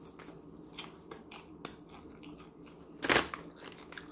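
Popcorn being chewed, soft scattered crunches and clicks, with one louder rustle of the foil snack bag being handled about three seconds in.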